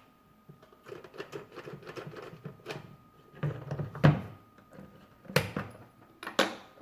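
Clicks and knocks of hands and a screwdriver working the battery compartment of a plastic toy piggy bank, with three sharper knocks in the second half.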